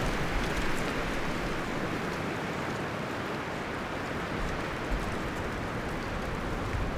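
Wind blowing through forest leaves and branches, a steady rustling hiss that eases off slightly in the first second or two.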